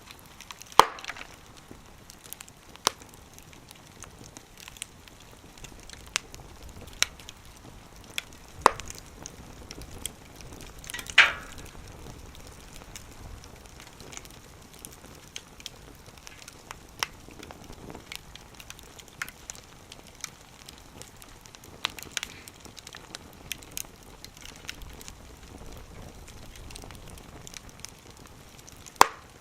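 Wood fire crackling, with irregular sharp pops from the burning firewood over a low hiss. The loudest pops come about a second in, around nine and eleven seconds in, and near the end.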